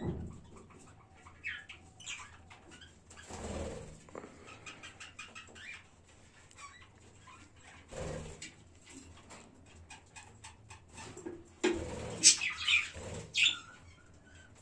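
Budgerigars in a colony chirping and chattering, with short bursts of wing flapping. A cluster of louder, sharper calls and flutter comes near the end.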